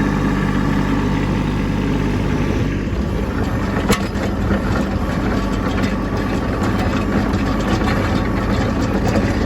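Kubota B2601 compact tractor's three-cylinder diesel running steadily in low gear, turning rougher and noisier from about two and a half seconds in as it works the rear blade through heavy snow. A single sharp knock comes about four seconds in.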